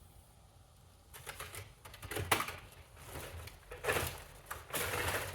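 Vacuum cleaner parts being handled: an irregular run of knocks, clicks and scrapes that starts about a second in.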